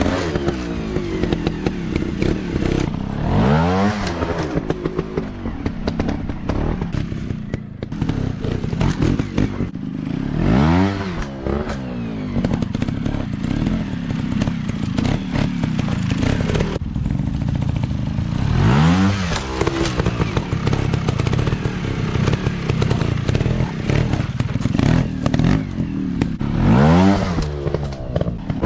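Off-road dirt bike engines running hard, their pitch swelling up and falling back about five times, with many sharp clicks and knocks.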